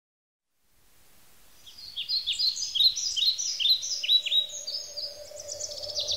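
A songbird singing after a second of silence: a run of short, high, down-slurred notes, two or three a second, that turns into a fast trill near the end. A faint steady low tone joins about halfway through.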